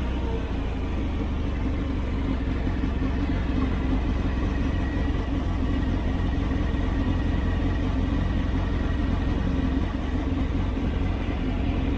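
Yamaha MT-10's inline-four engine, breathing through an Austin Racing decat exhaust, running steadily at low, even revs with no revving.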